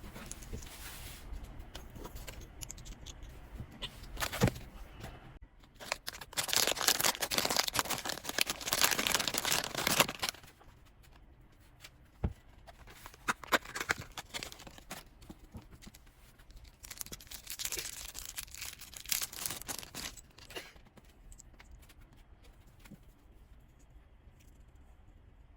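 Blind-box packaging being torn open and rustled by hand. A long stretch of tearing and crinkling starts about six seconds in and lasts about four seconds, and a second one comes near two-thirds of the way through, with scattered small clicks and taps in between.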